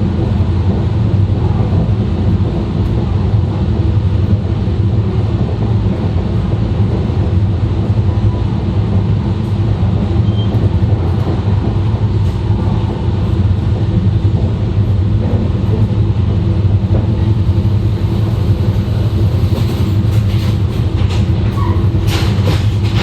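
E2 series Shinkansen running at speed, heard from the car's vestibule: a steady, loud rumble of wheels and running gear, with a few sharp clicks near the end.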